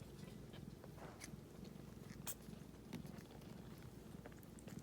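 Domestic cat purring faintly and steadily, with a few small clicks over it.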